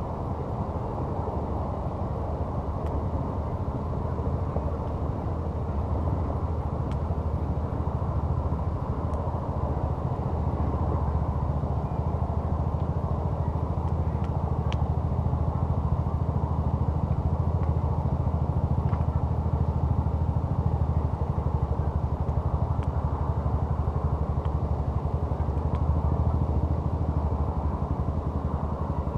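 A steady low rumble with a few faint, scattered crackles from a campfire.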